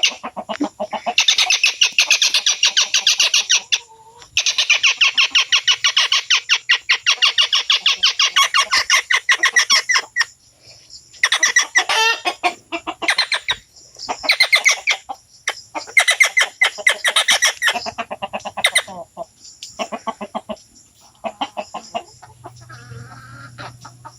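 A trapped bird giving loud, rapid, rattling distress calls in long unbroken bouts, then in shorter bursts with pauses between them.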